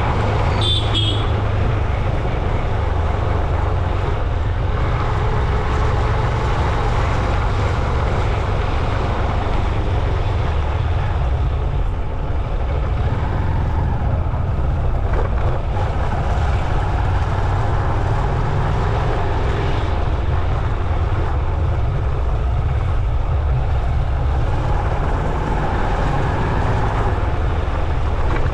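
Steady road-traffic noise heard while riding along a road, with a constant low wind rumble on the action-camera microphone. A short high squeak comes about a second in.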